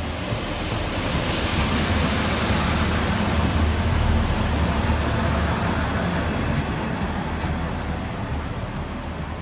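Class 144 Pacer diesel multiple unit pulling slowly into the platform close past the microphone: underfloor diesel engines and wheels on the rails, growing louder to a peak about four to five seconds in as the carriages pass, then easing as it slows. A brief high squeal about two seconds in.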